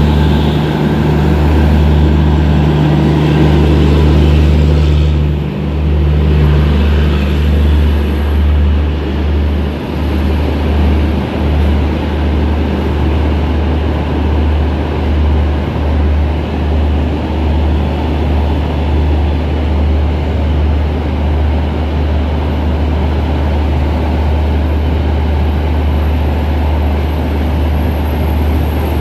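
Garib Rath Express passing close below, hauled by an electric locomotive: a steady hum fades about seven seconds in, then the coaches roll by with a continuous rumble of wheels on the track.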